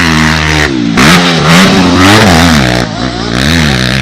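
Motocross bike engine revving loudly and close by, its pitch rising and falling over and over as the throttle is worked.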